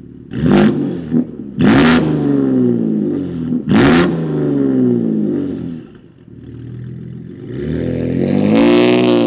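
BMW G81 M3's S58 twin-turbo straight-six running through catless downpipes and an equal-length OPF-delete midpipe, revving in three sharp blips about two seconds apart, the revs falling away after each, then climbing again near the end.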